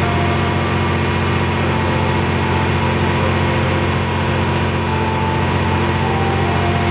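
Stationary train idling: a steady low engine hum, with short higher tones coming and going over it.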